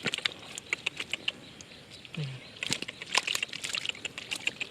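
Irregular small splashes and sharp wet clicks of hands groping through shallow muddy water.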